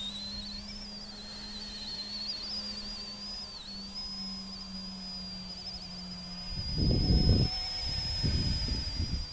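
Small electric RC helicopter hovering: a steady high-pitched motor and rotor whine that wavers slightly in pitch, over a lower hum. From about seven seconds in, bursts of low rumbling noise come in over it.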